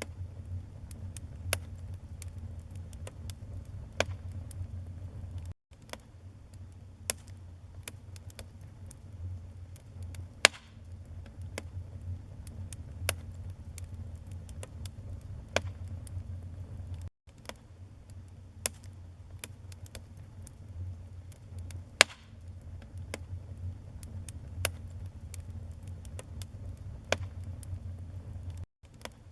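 Wood fire in a fireplace crackling: irregular sharp pops and snaps from the burning logs, a few much louder than the rest, over a steady low rumble of the flames. The sound cuts out for an instant three times, about every eleven and a half seconds.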